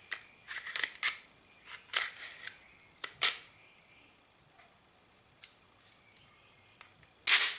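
Glock 22 Gen4 pistol being reassembled by hand: a series of sharp clicks as the slide and parts are handled, then near the end a louder, longer scrape of the slide moving along the frame.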